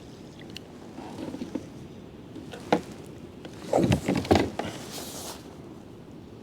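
Fishing gear being handled aboard a kayak: one sharp knock about three seconds in, then a cluster of louder thumps and clunks around four seconds, followed by a short hiss.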